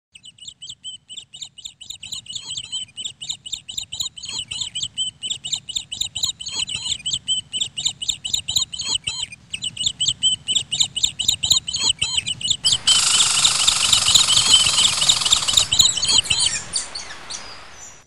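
A bird chirping rapidly in short high calls, several a second, fading in over the first few seconds. About two-thirds of the way in, a louder dense hiss covers the chirping for about three seconds, then the sound fades out.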